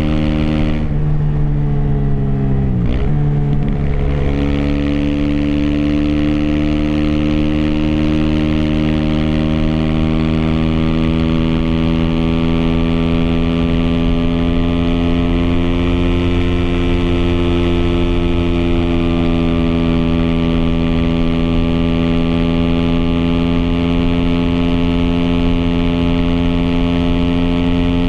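Aprilia SX 125's single-cylinder four-stroke engine running through an Arrow Thunder slip-on exhaust and racing header while riding. The revs drop briefly about three seconds in, climb again, then hold fairly steady at a cruise.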